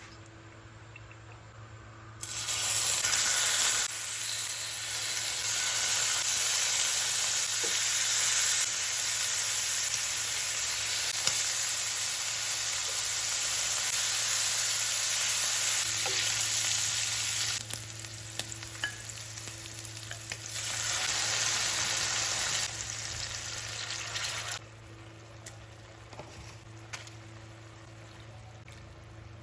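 Food frying and sizzling in a pan: a loud, even sizzle that starts abruptly about two seconds in, drops away briefly in the later part, and cuts off abruptly near the end. A steady low hum runs underneath.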